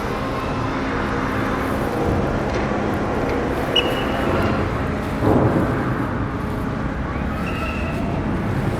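Steady outdoor engine rumble and harbour noise, with a faint hum and a couple of short high tones, and a brief louder rush about five seconds in.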